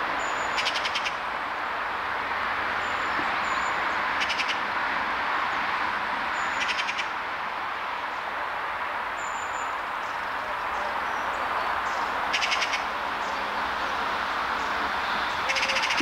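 Wild birds calling over a steady rushing background noise: several short, high, thin whistles and about five brief, rapid, high trills scattered through.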